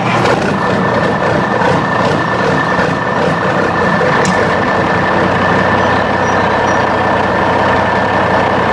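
A motor running steadily, with a constant high whine over a dense rumble and no change in speed.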